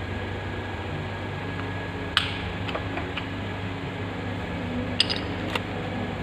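A steady background hum, with a sharp click about two seconds in and a few more clicks near the end.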